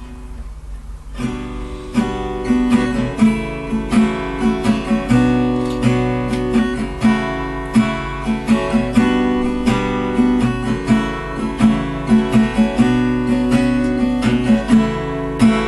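Acoustic guitar strummed in a steady rhythm as a song's introduction, coming in about a second in.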